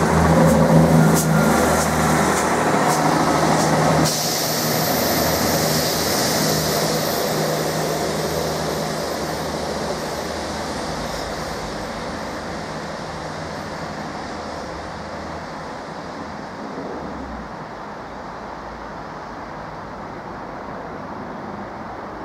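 Class 159 diesel multiple unit pulling away: its diesel engines run with a steady low note, with a few sharp clicks from the wheels as it passes close. The sound drops abruptly about four seconds in, then fades steadily as the train draws away.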